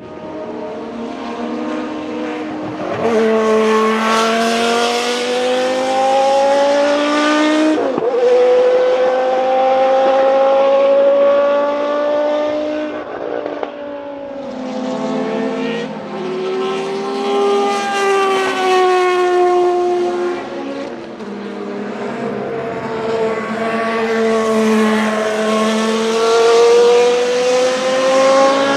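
Historic Group C race car engines at full throttle, the pitch climbing steadily and dropping sharply at each upshift, about 8 and 13 seconds in and again later. More than one car is heard at once in the middle.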